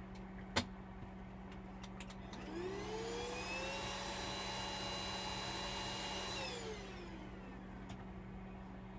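A sharp click, then a small electric motor whine that rises in pitch as it spins up, runs steadily for about four seconds and winds down, over a steady low hum.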